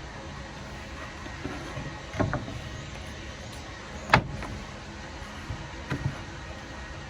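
A few sharp knocks and taps of workpieces being handled and set down while test-fitting a homemade table top: a pair about two seconds in, the loudest single knock about four seconds in, and two lighter ones near the end, over a steady background hum.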